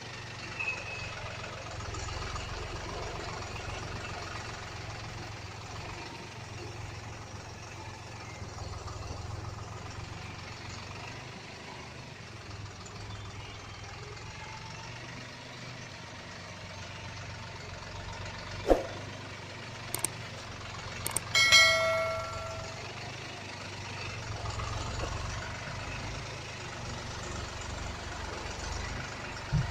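A truck loaded with sugarcane, its diesel engine running steadily with a low rumble. About two-thirds of the way through come a few sharp clicks and then a short metallic, bell-like ring.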